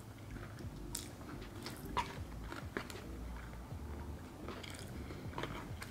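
A person chewing a mouthful of sushi close to the microphone: soft wet mouth sounds with small scattered clicks, the sharpest about two seconds in.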